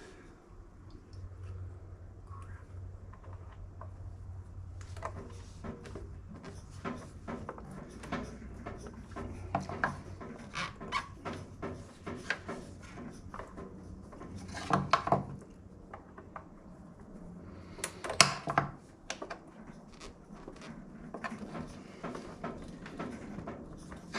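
Hands working a fuel line through the engine and onto the carburettor: a run of small clicks, knocks and rustling, with louder clatter about 15 and 18 seconds in, over a steady low hum.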